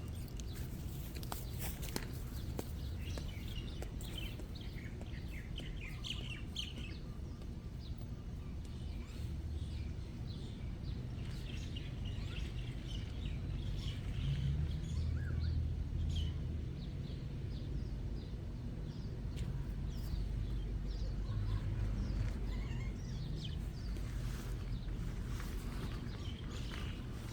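Birds chirping, many short calls scattered throughout, over a steady low rumble.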